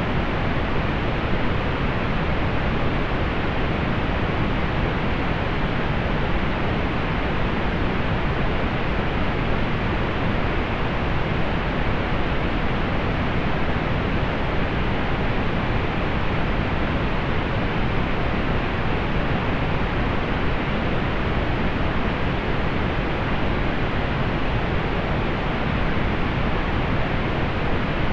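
Steady pink noise: an even, unchanging hiss, softer in the highs, with no events in it.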